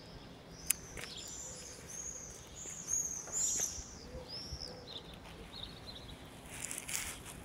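Birds chirping, a run of short, high, arched calls through the first few seconds, over faint steady background noise, with one sharp click under a second in.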